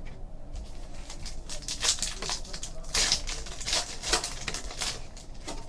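Trading cards and their pack wrappers being handled: a run of crisp rustles and flicks as cards are shuffled through and a pack is opened.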